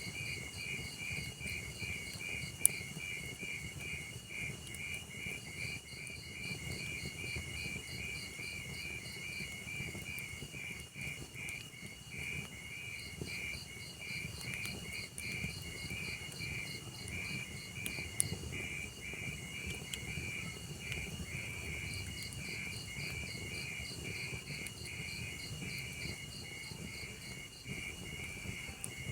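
Insects chirping in a fast, even pulsing rhythm over the low crackle of a burning wood fire, with two sharp pops from the logs, one a few seconds in and one about midway.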